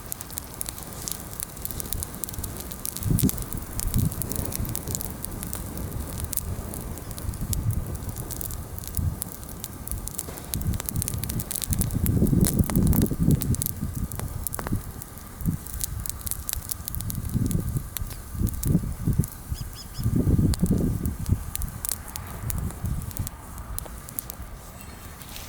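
Bonfire of freshly pruned green branches burning, with a steady run of small sharp crackles and pops. Irregular low muffled rumbles swell about halfway through and again around twenty seconds in.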